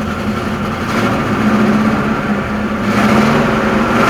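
Chevy Chevelle's 283 small-block V8, fitted with a cam and upgraded heads, running with a steady low hum that gets a little louder about a second in and again about three seconds in.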